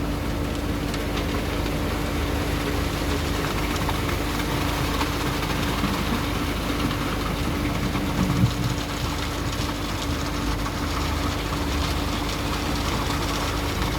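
Diesel engine of heavy construction machinery running steadily, a low rumble with a constant hum, and one brief louder knock about eight and a half seconds in.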